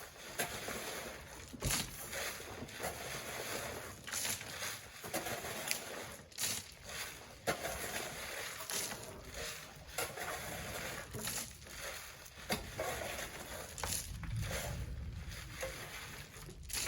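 Wet sand being shovelled by hand: repeated irregular scraping and sloshing strokes, about one a second, over a steady wash of water-like noise.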